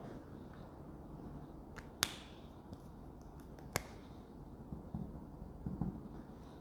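Low room noise broken by two sharp clicks, about two seconds in and again just under two seconds later.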